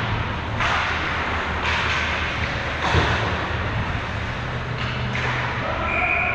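Ice hockey play: skate blades scraping and carving on the ice several times, with a sharp knock about three seconds in, over steady arena hubbub. A short pitched call sounds near the end.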